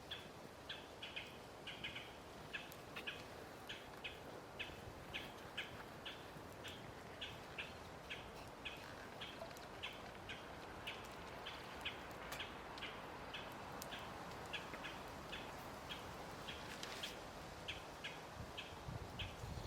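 A bird calling over and over: short high chirps at an even pace of about two or three a second, over a faint steady background.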